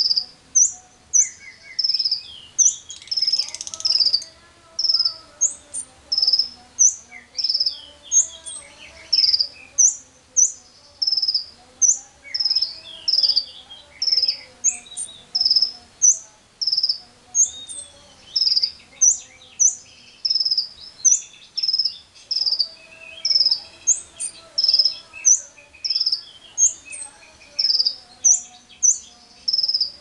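Birds calling, the caged lovebird among wild birds: a sharp, high chirp repeated steadily about three times every two seconds, with softer twittering and chattering that comes and goes.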